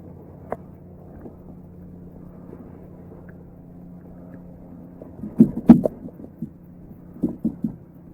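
A few sharp knocks over a steady low hum: one short knock about half a second in, then two loud clusters of knocks about five and seven seconds in.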